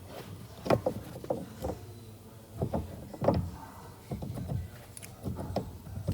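Irregular clunks and knocks, about a dozen of them, as the steering column's shaft is worked and tapped into alignment with the steering rack side.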